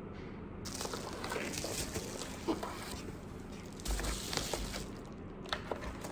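Typing on a Hansung GK898B OfficeMaster contactless (electrostatic capacitive) keyboard: quick, irregular keystrokes in two runs, with a soft low thump about four seconds in.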